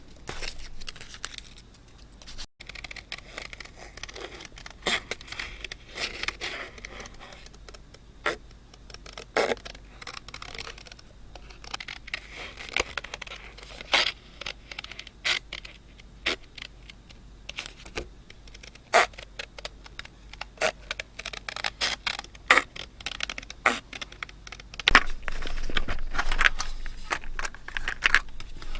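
Paper and craft materials being handled on a desk during scrapbooking: soft rubbing and scraping of paper with scattered sharp taps and clicks, getting busier and louder near the end.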